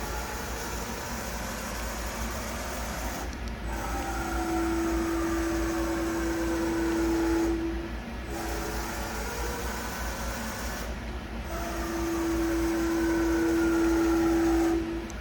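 Milltronics RH33 CNC mill running: a steady mechanical hiss and hum, with a single held whine that comes in twice for a few seconds each time and breaks off sharply.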